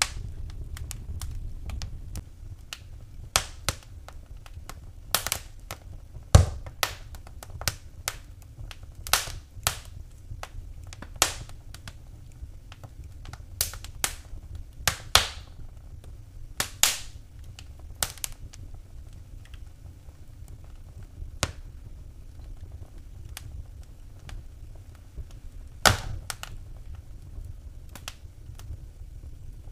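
Wood fire burning in a fireplace, crackling with irregular sharp pops and snaps, a few of them much louder, over a steady low rumble.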